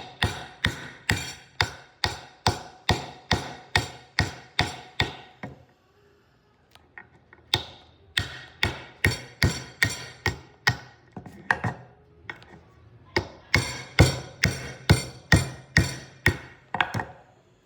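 Sharp knocks at about two a second, in three runs with short pauses between them: sea shells being struck with a hard tool to crack them open before eating.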